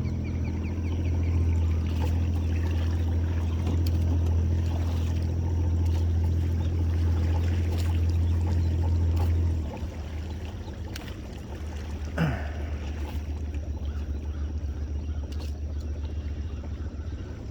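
Boat motor running slowly with a steady low hum that eases off about ten seconds in, with water sounds. A brief squeak sweeps up and back down about twelve seconds in.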